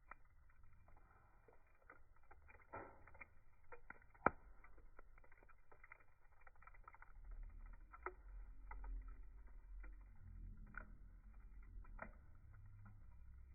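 Wood fire crackling faintly, with irregular pops and one sharper pop about four seconds in. A low rumble joins from about seven seconds in.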